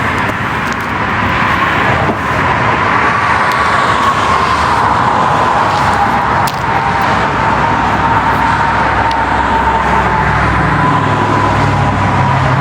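Steady road traffic noise from passing vehicles, with a low engine rumble growing in near the end.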